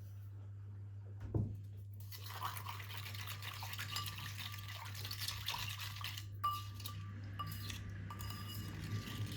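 A kitchen utensil scraping, clicking and clinking against a bowl or dishes in quick strokes, starting about two seconds in after a single knock. A steady low hum runs underneath.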